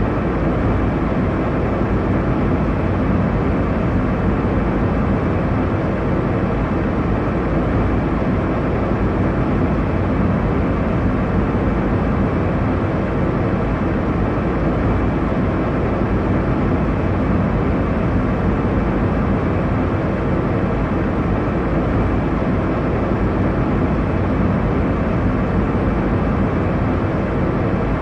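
Airliner cabin noise: a steady, even rush of engine and airflow noise, deepest in the low range, with no changes or separate events.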